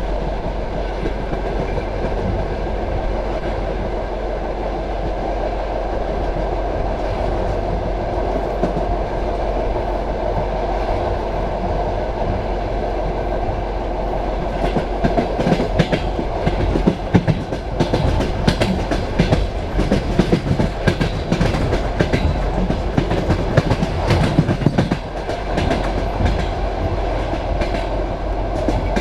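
Passenger train carriage running on the rails with a steady rumble. About halfway through, a dense run of wheel clicks and clacks sets in over rail joints and continues until a few seconds before the end.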